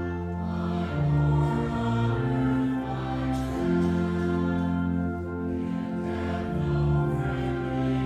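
A slow church hymn: a choir singing over sustained chords that move about once a second above a steady bass.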